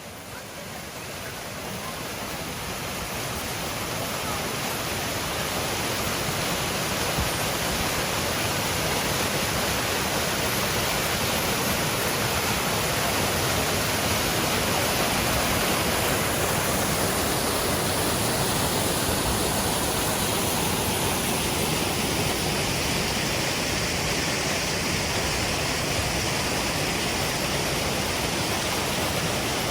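Waterfall rushing steadily, growing louder over the first few seconds and then holding even.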